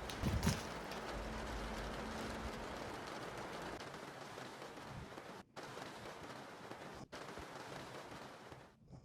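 Steady rain hiss, with a heavy low thump and rumble about half a second in. The rain cuts out for an instant twice in the second half.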